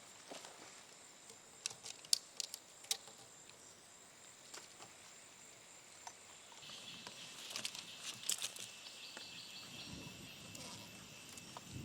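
Quiet forest ambience: scattered light taps and clicks in the first few seconds. About six and a half seconds in, insects start a steady high chirring that runs on.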